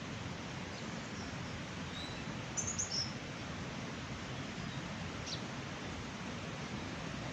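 Steady rushing of mountain water, with a small bird giving a quick cluster of high chirps about two and a half seconds in and one more chirp a little past halfway.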